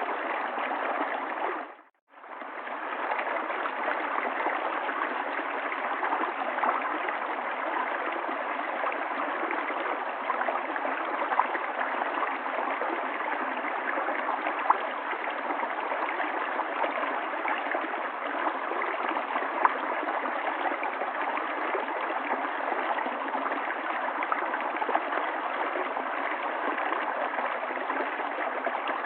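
River water flowing steadily. About two seconds in, the sound briefly dips to silence and fades straight back in.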